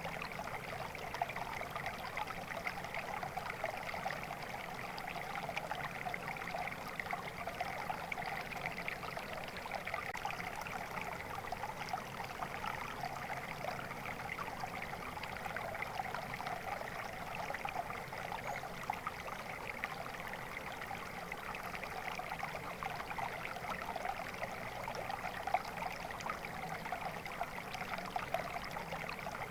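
Steady flowing water of a stream, an even rushing and trickling with no change.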